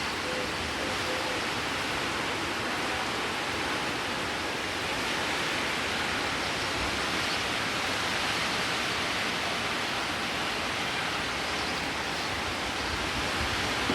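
Heavy rain pouring steadily, an even rush of noise with no break or change.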